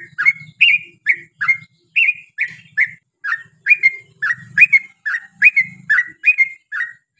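Yellow-vented bulbul singing a long, unbroken run of short, bubbly chirping notes, about two to three a second.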